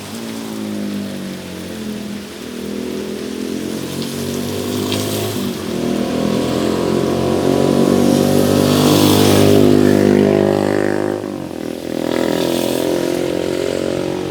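A motor vehicle engine running close by, its pitch rising and falling as it speeds up and slows down. It is loudest about nine seconds in, drops off briefly near the end, then picks up again.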